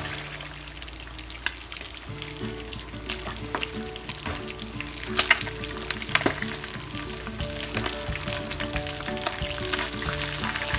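Mackerel pieces frying in hot oil in a wok, sizzling and crackling steadily. From about halfway there are sharp knocks and scrapes as a wire spider strainer and a wooden spatula turn the fish against the pan.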